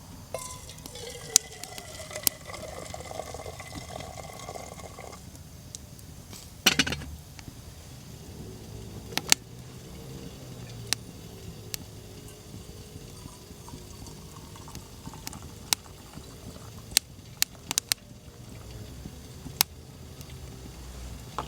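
Water poured into a container for about five seconds, its pitch rising as the vessel fills. Scattered sharp clicks and knocks follow.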